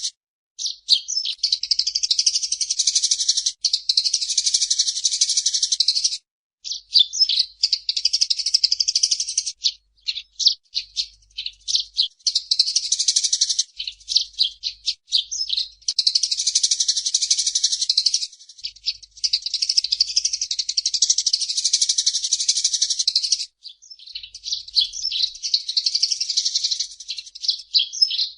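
Eurasian tree sparrow chirping in long runs of rapid, high-pitched chatter, broken by short pauses about six, ten to twelve, and twenty-three seconds in.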